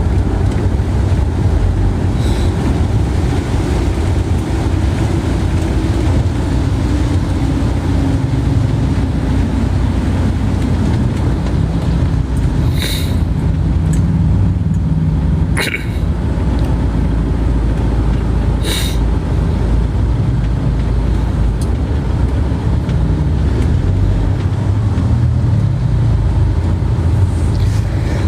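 Steady low rumble of vehicle noise, with a few brief clicks in the middle.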